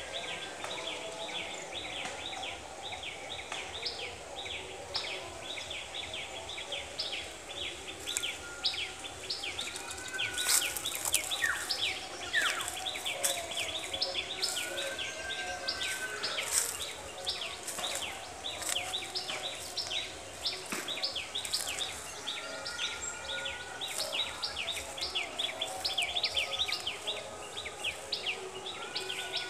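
Birds chirping and twittering together: a dense, fast run of short repeated chirps, with now and then a short whistle and a few louder, sharper calls in the middle.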